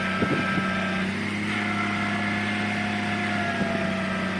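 Heavy vehicle's engine running steadily, a low hum with a higher whine over it and a few faint knocks about a quarter of a second in.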